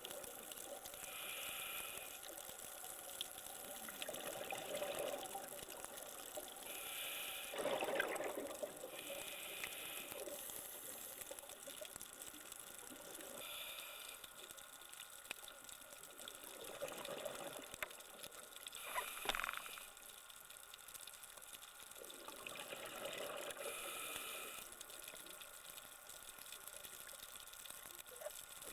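Scuba diver breathing through a regulator underwater: a hiss on each inhale and a gurgling rush of exhaled bubbles, repeating every few seconds.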